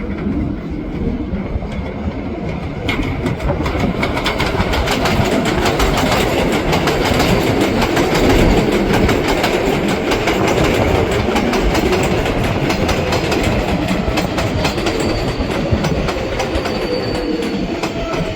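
A New York City subway 7 train on the elevated IRT Flushing Line, its wheels clattering over the rail joints. The sound builds from about three seconds in, is loudest around the middle, and a faint falling whine comes in near the end.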